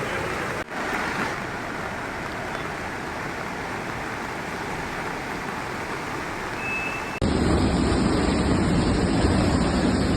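Steady rushing roar of the Beas river in flood. About seven seconds in it cuts suddenly to a louder, deeper rush.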